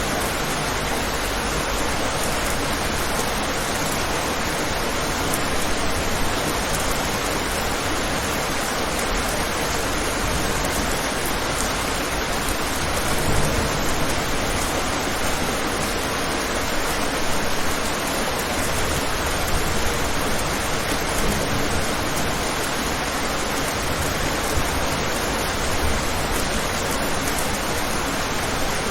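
Steady rain, a dense even hiss with small swells in loudness.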